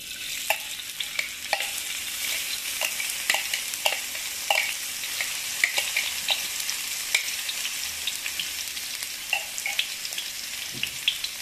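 Ground garlic, shallot and chili paste sizzling in hot oil in a pan: a steady hiss with frequent crackling pops, starting abruptly.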